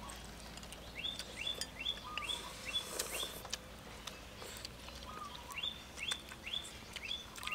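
A bird calling in two runs of short, quickly rising notes, about three a second, with a pause between the runs. Light scattered clicks run underneath.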